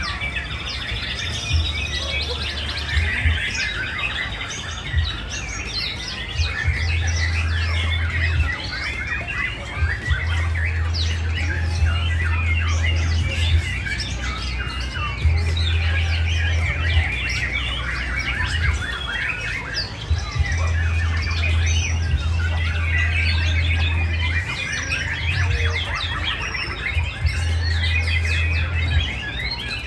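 Many caged white-rumped shamas (murai batu) singing at once, a dense chorus of rapid whistles and chirps. A low hum comes and goes beneath it.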